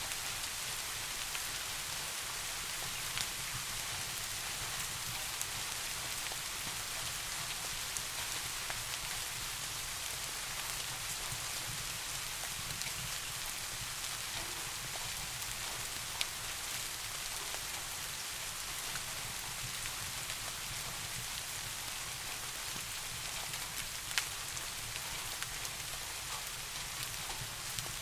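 Steady rainfall, an even hiss of many drops, with a low rumbling layer underneath and a few isolated sharp clicks or ticks scattered through, the loudest about two-thirds of the way in.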